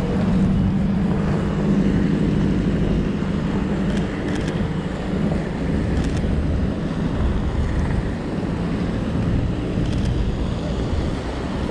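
Street traffic: a vehicle's engine hum, strongest in the first few seconds and then easing, over steady wind noise on the microphone.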